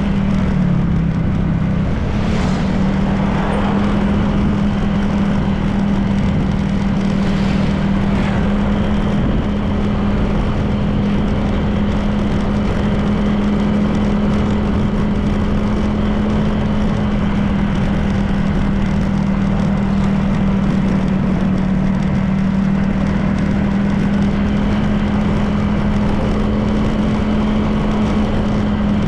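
Honda PCX 160 scooter's single-cylinder engine running steadily at cruising speed, with road and wind noise. The engine note dips briefly about a second in. A couple of brief passing sounds rise and fall within the first eight seconds.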